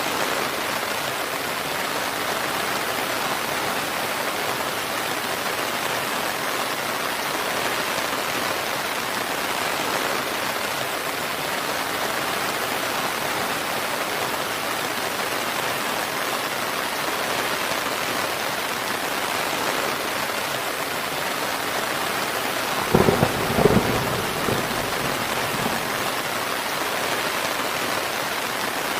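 Steady rain falling, an even hiss of many drops. About three-quarters of the way through, a short clap of thunder breaks in, a few quick loud cracks that trail off into a brief rumble.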